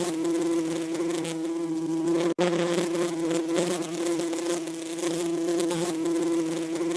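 Bees buzzing in a steady, continuous drone, broken by a split-second gap about a third of the way in.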